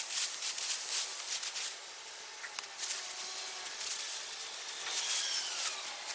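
Rustling and scraping of dry potato plants and soil being handled by hand, a run of short, crackly rustles.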